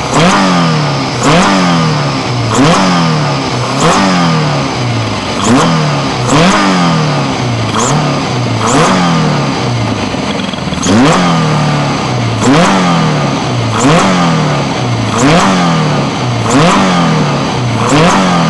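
Highly tuned Toyota 20-valve four-cylinder race engine with long-duration 288° cams, revved again and again with quick throttle blips. The revs jump sharply and then fall back about every second and a half, around a dozen times.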